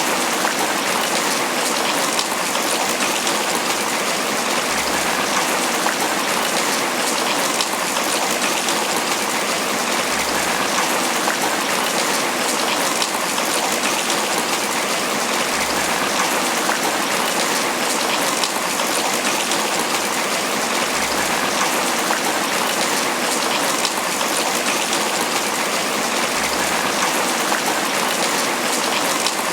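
Steady tropical rain falling on banana leaves: an even, dense hiss flecked with single drops, constant throughout.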